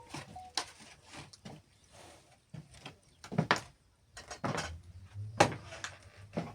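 Irregular knocks and clicks of objects being handled, with three louder thuds in the second half.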